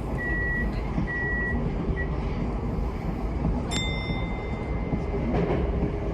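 Tokyo Metro 10000-series electric train running, a steady rumble of wheels on track. It is joined by three short high beeps in the first two seconds and a click with a longer high tone a little past the middle.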